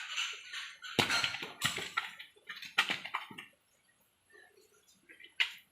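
Rainwater dripping and splattering in irregular heavy drops, dying away after about three and a half seconds, with a few faint drips and one last sharp drop near the end.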